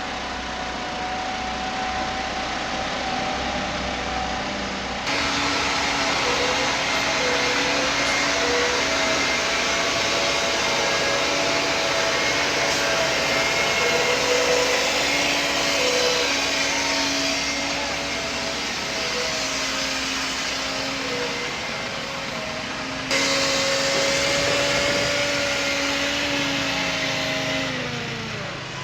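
Heavy vehicle engine running steadily, its pitch wavering slightly and dropping near the end. The sound changes abruptly twice, about 5 and 23 seconds in.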